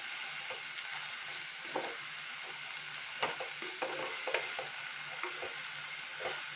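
Sliced bitter gourd sizzling in oil in a clay pot while a wooden spatula stirs it, giving irregular scrapes and knocks against the pot over a steady sizzle. The sizzle comes from water still clinging to the blanched and drained gourd as it meets the hot oil.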